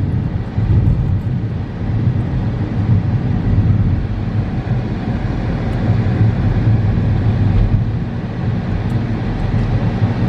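Helicopter cabin noise in flight: a steady engine and rotor drone with a strong low hum.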